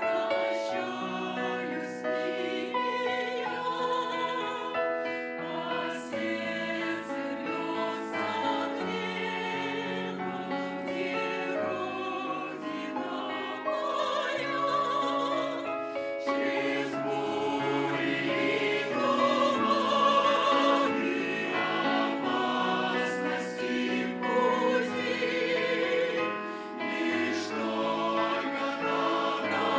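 A choir singing in several voice parts, holding long notes with vibrato.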